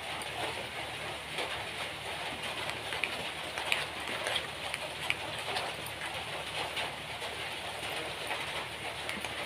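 Steady hiss of rain, with small soft clicks and squelches of fingers mixing wet gram-flour batter in a glass bowl.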